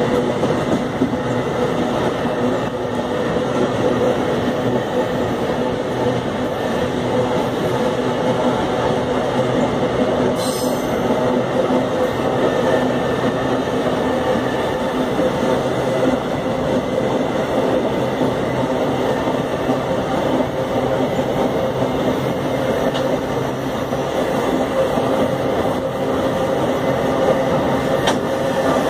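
An empty iron-ore freight train rolling past, steel wheels running on the rails. The sound is loud and steady, with a constant humming tone over the rolling noise.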